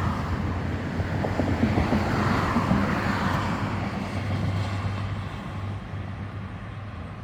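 Road traffic: a car passing on the street, rising to its loudest about two to three seconds in and then fading away.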